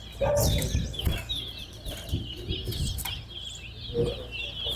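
Caged towa-towa finches singing in a song contest: a continuous run of quick, high chirps and warbles, with low thumps and rumble underneath.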